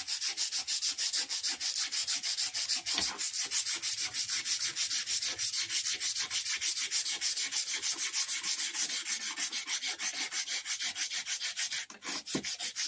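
240-grit sandpaper rubbed back and forth by hand on a rusty steel minibike fork tube, in quick even strokes about five a second, taking the surface rust off. The strokes pause briefly near the end.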